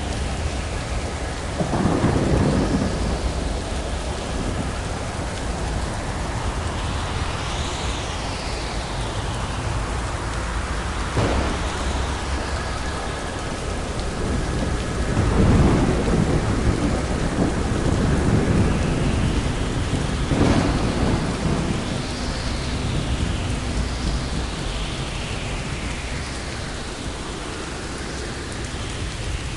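Thunderstorm: steady heavy rain with repeated thunder, a rumble about 2 s in, sharp cracks near 11 s and 20 s, and a long rolling rumble in the middle.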